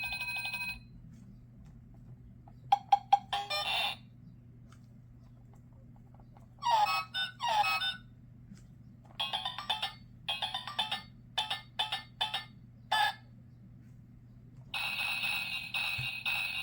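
Electronic sound-book module playing a series of short, tinny sound clips and jingles through its small speaker, one after another with brief pauses between them. They include a rapid choppy run in the middle and a steady ringing tone near the end.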